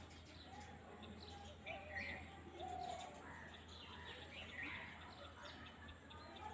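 Faint outdoor ambience of small birds calling: short, scattered chirps and warbles over a steady low hum.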